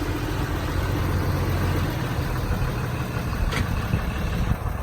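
Cummins diesel engine of a Dodge Ram bucket truck idling steadily with a low rumble.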